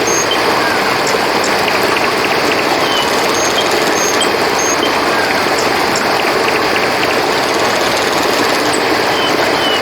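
Steady rush of a flowing river, with short high chirps scattered over it every second or so.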